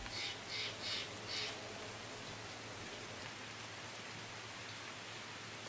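Steady rain falling, an even hiss, with four short louder swells of hiss in the first second and a half.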